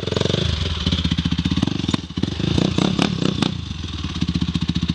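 Dirt bike engine running and being blipped unevenly, dipping briefly about two seconds in and revving again, then settling into a steady idle near the end.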